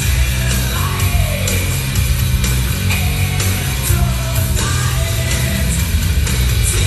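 Loud rock music with a singing voice played through a PA test rig of an FTR-15 subwoofer cabinet and SRX712 speakers, with a heavy, constant bass.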